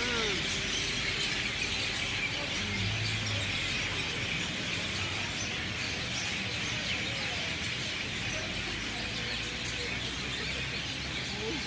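A dense chorus of many birds chirping at once in a banyan tree at sunset, a steady, unbroken din of overlapping calls typical of an evening roost.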